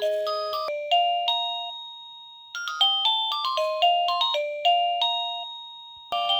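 Phone ringtone playing a chiming melody of bell-like notes in short phrases, each phrase fading out before the next begins.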